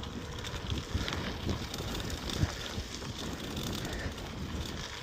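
Bicycle being ridden over rough ground: tyre noise with irregular small knocks and rattles from the bike, and wind on the microphone.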